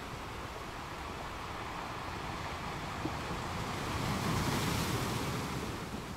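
Ocean surf washing up a sand beach, swelling to its loudest about four to five seconds in as a wave breaks and rushes in, then easing.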